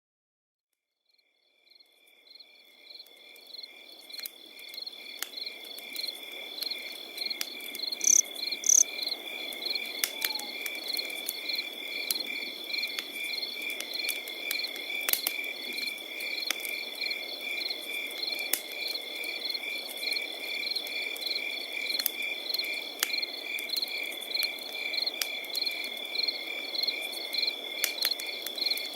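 Crickets chirping in a steady, rapidly pulsing high trill, with a campfire crackling and giving sharp irregular pops over a soft low rush. It fades in over the first couple of seconds, and two louder pops come about eight and nine seconds in.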